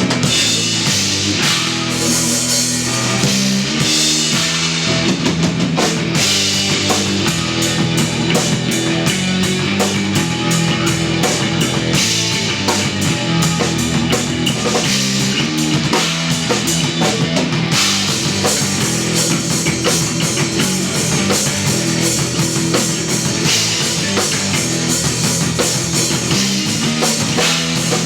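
Instrumental post-rock trio playing live: electric guitar and electric bass over a drum kit with steady cymbal work.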